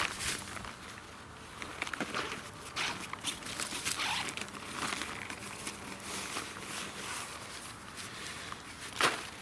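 Irregular rustling and crinkling with light knocks, and one sharper knock near the end.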